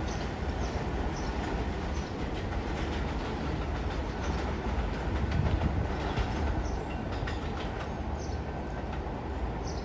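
Subway train running along the rails with a steady rumble and short, faint, high squeaks from the wheels every second or so.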